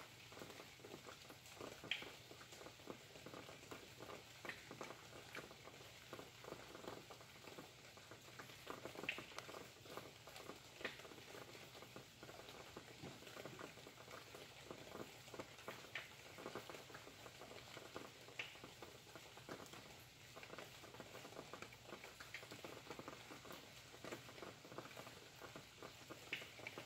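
Faint rain pattering steadily, with a few sharper single drops standing out now and then.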